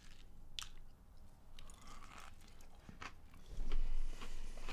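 Crisp crunching and chewing as a burger coated in crushed potato chips is pressed into the chips, bitten and chewed.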